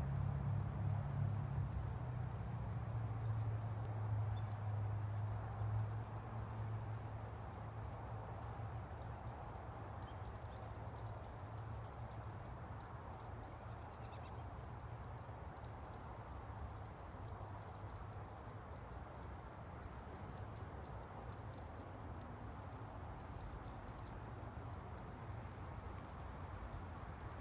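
A flock of bushtits giving constant high, thin twittering contact calls: many short notes, several a second. Under them runs a low steady hum that fades after about ten seconds.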